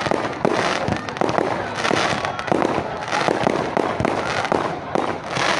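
Fireworks display going off: a rapid, irregular barrage of bangs and crackling, several reports a second.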